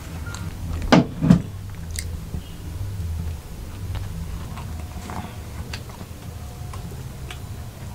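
Eating sounds: chewing and small mouth clicks as rumali roti with tarka is eaten, with two sharp knocks about a second in, over a low steady hum.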